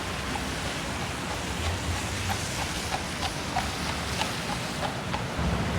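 Steady rushing outdoor city noise, with a run of faint short ticks about three times a second through the middle.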